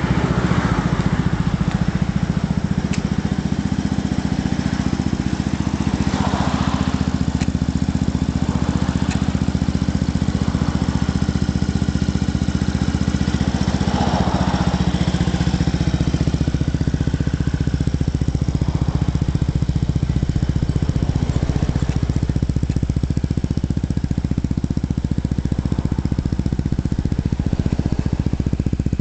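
Yamaha BW'S 125 scooter's single-cylinder four-stroke engine idling steadily, with a few brief faint swells of noise.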